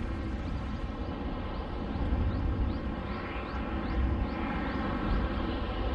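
Tractor-trailer's diesel engine running steadily at low speed, a continuous rumble, while the semi is maneuvered slowly into position to back up.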